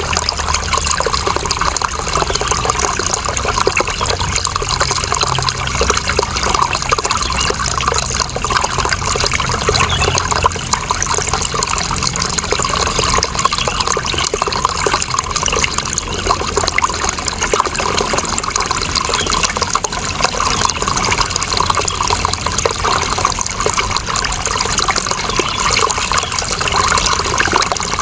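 Running water flowing steadily and evenly, a continuous splashing rush.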